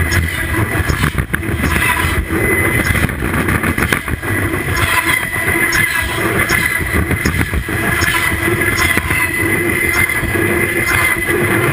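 CN train cars rolling directly overhead, heard from between the rails: a loud, steady rumble of steel wheels on the rails with a continuous high-pitched ringing squeal over it.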